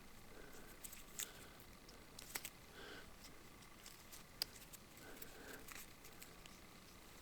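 Near silence, with a few faint sharp clicks and some soft, brief tones.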